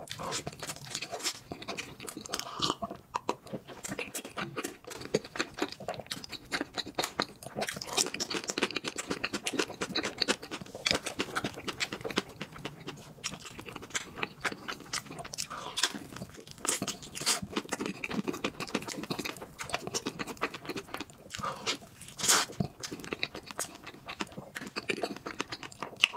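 Close-miked chewing and biting into crepes covered in chocolate spread with banana filling, with many small wet clicks and smacks of the mouth.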